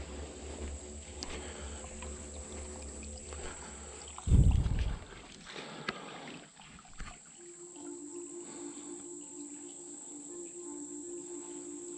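Outdoor trail ambience: a steady high-pitched hum with a low rumble underneath, broken by one loud low thump about four seconds in.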